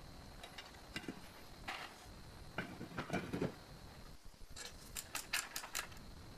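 Metal parts and hand tools being handled: scattered sharp clicks and clinks, a short scrape in the middle, and a quick run of about six clicks near the end.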